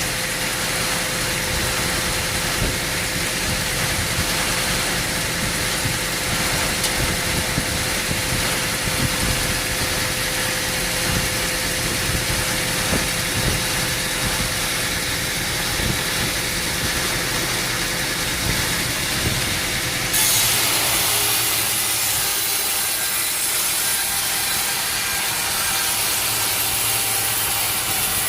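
Sawmill saw cutting through a log over the steady running of the mill's engine. About twenty seconds in the sound changes abruptly to a brighter, hissier cut with less low rumble.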